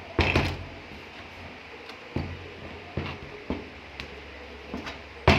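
A series of sharp knocks and clicks from hard objects being handled, about seven in all and spaced irregularly, the loudest just after the start and near the end, over a low steady hum that comes in just after the first knock.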